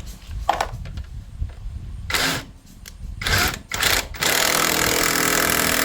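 Handheld electric power tool driving bolts on a motorbike engine: two short bursts, then a longer steady run that cuts off suddenly.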